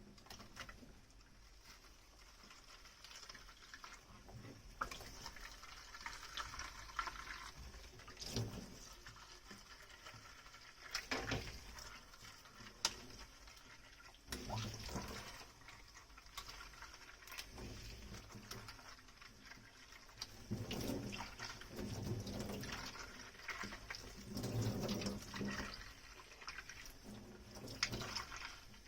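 Dishes being hand-washed at a kitchen sink: water running and splashing, with scattered clinks and knocks of dishes against the sink and each other.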